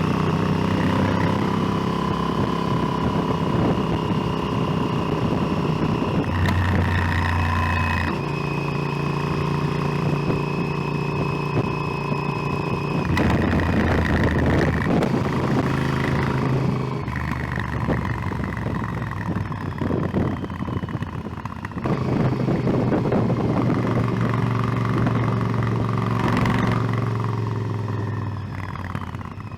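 Motorcycle engine running while riding, its pitch shifting up and down in steps every few seconds with throttle and gear changes. It drops away near the end as the throttle closes.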